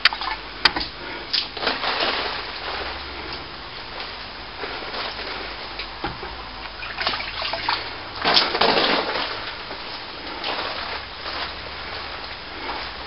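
Water splashing from a wet brush as a cracked plaster wall is wetted down before render, coming in uneven swishing bursts with the biggest splash about eight seconds in. Two sharp knocks sound near the start.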